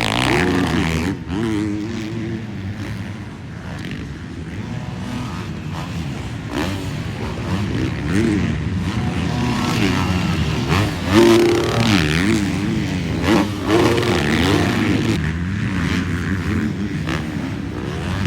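A pack of dirt bikes racing on a supercross track, several engines at once, revving up and down as the riders work the throttle.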